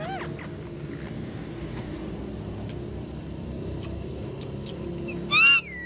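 Ringneck parrot giving one loud, shrill squawk near the end, after a brief fainter call right at the start, over a steady low rumble.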